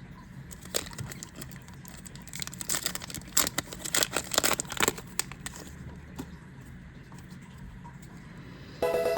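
Booster pack wrapper crinkling and trading cards being handled, with a run of quick crackles and clicks in the middle. A short pitched tone starts near the end.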